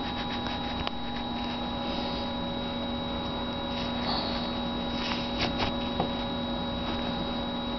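Steady electrical hum, with a few faint rustles and soft ticks from the sewn cloth bird being handled and pushed right side out.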